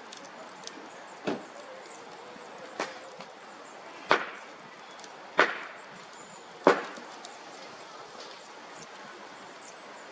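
Five sharp cracks, evenly spaced about a second and a third apart, the later three loudest, over a steady low background noise.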